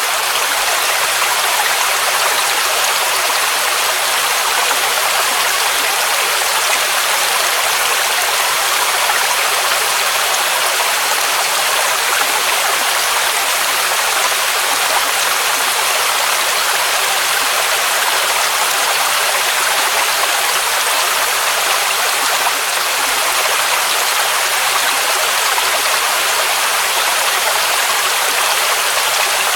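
Waterfall rushing: a steady hiss of falling water, weighted toward the high end with little low rumble.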